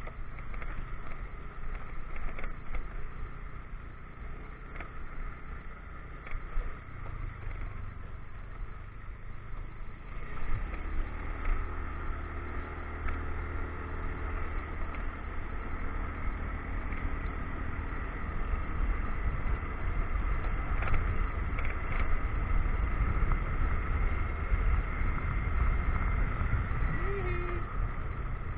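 Motorcycle riding: engine running under wind and road rumble on the action camera's microphone, getting louder about ten seconds in as the bike picks up speed.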